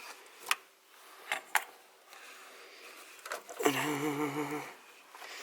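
Three sharp metallic clicks of hand tools being handled, then a man's drawn-out, wavering hum or vocal sound lasting about a second.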